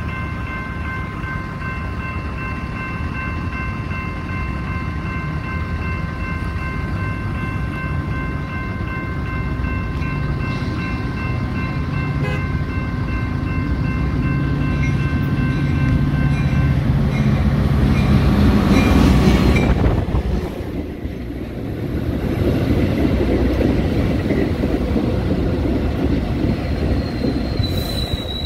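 Train rumbling past on the tracks, growing louder to a peak about two-thirds through, with a steady high multi-note tone sounding until a little past halfway. A high-pitched wheel squeal begins near the end.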